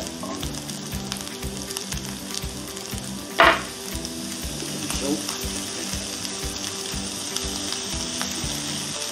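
Smashed baby potatoes sizzling steadily as they pan-fry in a nonstick skillet. About three and a half seconds in there is one brief, loud, noisy sound.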